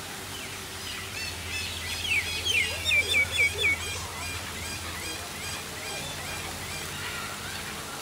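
Birds chirping and calling: a quick run of loud, repeated rising-and-falling high notes about two seconds in, then softer repeated chirps, over a steady wash of falling water.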